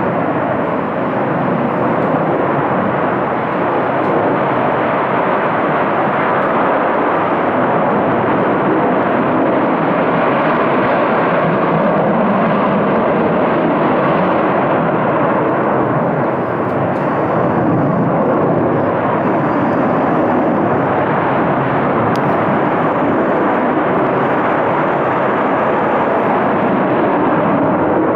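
Loud, steady jet-engine roar of US military fighter jets taking off, holding at the same level throughout with no break.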